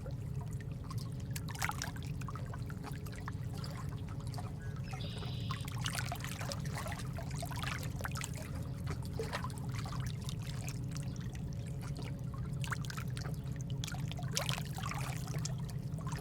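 Steady nature-sound ambience of trickling, dripping water, with many small drops heard one after another and a brief high chirp about five seconds in.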